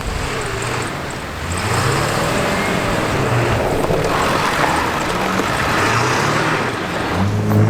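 A car's engine revving up and down as it drifts through deep snow, over a steady rushing hiss. The engine swells and comes closer near the end.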